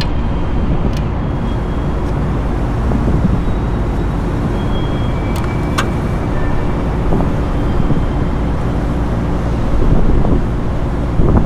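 Steady low machinery hum with a constant pitch, heard over a rushing background noise, as from other rooftop equipment running. A couple of light, sharp clicks come about halfway through.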